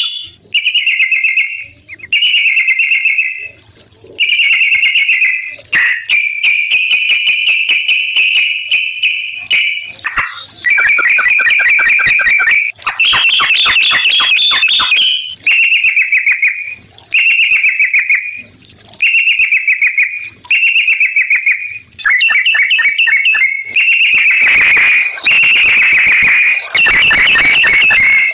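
Yellow-vented bulbul (trucukan) singing in loud, rapid, bubbly chattering phrases, each about a second long and repeated with short gaps. It runs into longer unbroken stretches in the middle and again near the end.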